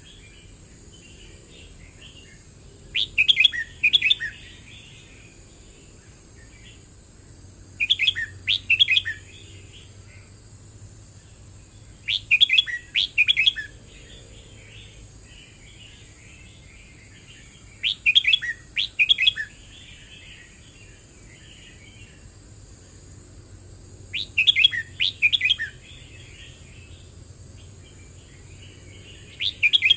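Red-whiskered bulbul singing: a short, loud song phrase every four to six seconds, with soft twittering in between.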